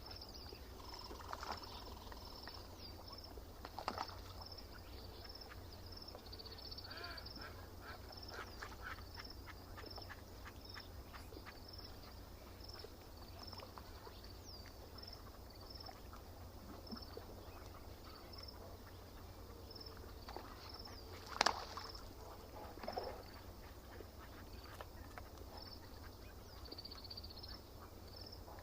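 Lake ambience: ducks quacking now and then, loudest about two-thirds of the way through, over a small bird's long run of short, evenly spaced high chirps and a steady low rumble.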